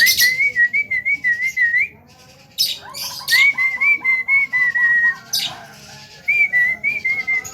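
Male Javan myna (jalak kebo) singing: three runs of warbling whistles, with harsh chattering notes between them.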